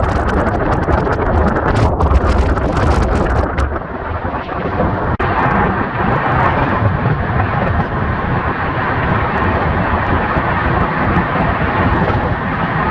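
Moving passenger train heard from on board, with steady rushing wind and rolling noise and a heavy low rumble, played back at double speed. There is a brief dropout about five seconds in.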